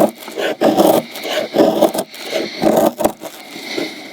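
A sharp knife scraping and shaving hardwood in repeated strokes, about two a second.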